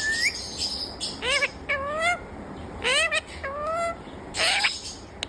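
Pet parrot calling in a series of short, upward-gliding whistled calls, about one every half-second to second, with a harsher screech about four and a half seconds in.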